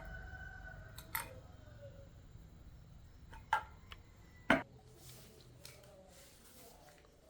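A few separate sharp clicks and taps, the loudest about four and a half seconds in, over a faint low hum.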